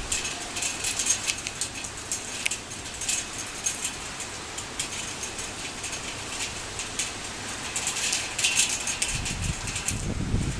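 Torrential rain pouring down, with a dense, irregular crackle of drops splashing on hard surfaces. A low rumble swells up near the end.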